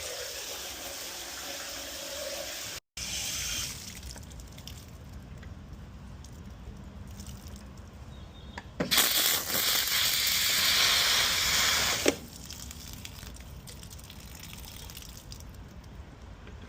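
Water running from a shower. After a cut, a spigot is opened and water gushes out hard for about three seconds, then is shut off suddenly. The flow shows good water pressure.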